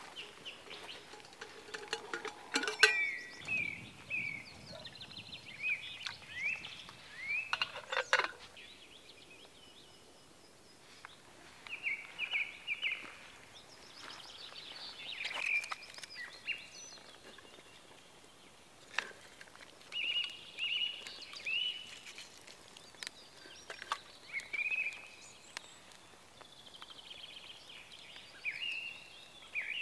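A small songbird singing short chirping phrases every few seconds, with a few sharp knocks or clicks between them; the loudest knock comes about three seconds in.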